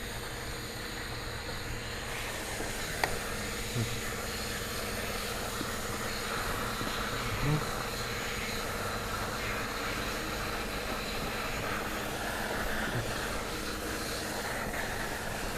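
Steady background hum and hiss with a faint steady tone, broken by a few light clicks about three and four seconds in and a soft bump a few seconds later.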